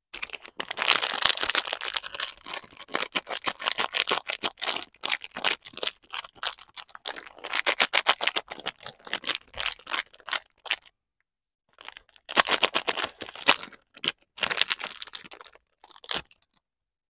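Soap packaging crinkling and tearing as it is unwrapped by hand, a dense run of crackles that stops briefly, then resumes.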